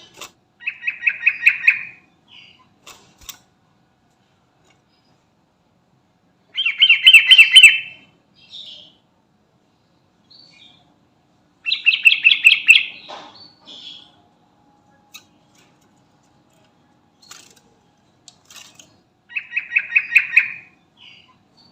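Yellow-vented bulbul (trucukan) singing four short, bubbling phrases several seconds apart, each a quick run of notes lasting about a second, with faint single chirps between them.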